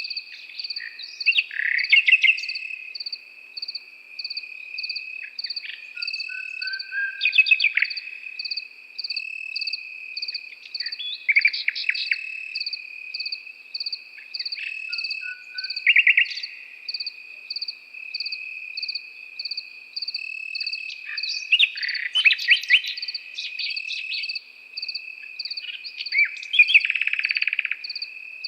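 A nightingale singing in separate varied phrases every few seconds, the last ending in a fast rattling trill. Crickets run underneath, one trilling steadily and another chirping in an even pulse.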